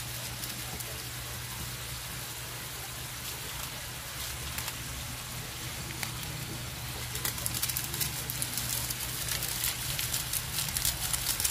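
Chicken innards and egg yolks frying in a wok: a steady sizzle that grows louder, with dense crackling, in the last few seconds.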